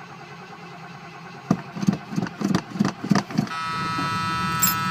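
Ford Torino V8 cranking on a cold start and firing unevenly in a few ragged pops for about two seconds without catching. A steady electric warning buzzer then sounds.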